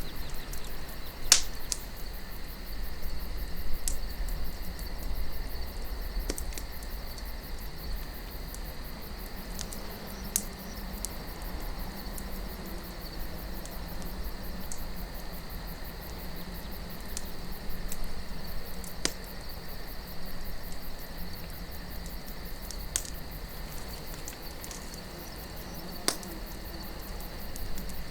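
Campfire crackling, with sharp pops of burning wood every few seconds, over a low wind rumble and a steady high chirring of crickets.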